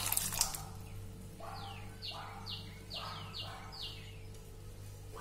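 A few clinks and scrapes as the cooked dal is tipped from the cooker into the pan. Then a bird calls a quick run of about six short chirps, each sliding down in pitch, over a low steady hum.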